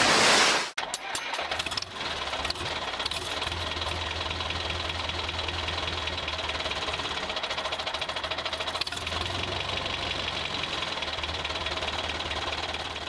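Tractor engine sound running steadily with a fast, even knock, after a brief loud burst of noise right at the start; it fades near the end.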